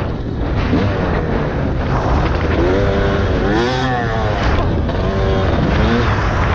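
Dirt bike engine revving up and down as it is ridden, its pitch rising and falling several times, over a heavy low rumble of wind and engine noise.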